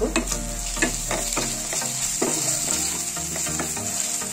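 Onions frying in oil in a kadai with freshly added spices and salt, sizzling steadily, while a wooden spatula stirs them. Its strokes scrape and tap the pan irregularly.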